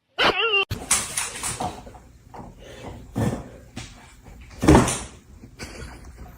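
A brief wavering pitched sound, then a run of irregular knocks and rustling thumps, the loudest nearly five seconds in.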